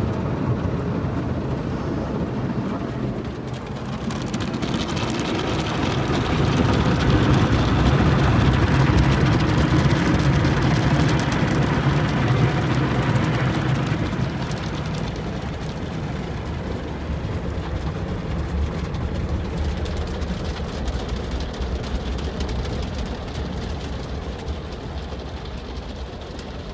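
Automatic car wash heard from inside the car: the wash brushes and water spray working against the body and windows make a steady, rain-like noise. It grows louder about five seconds in, stays loud for several seconds, then eases.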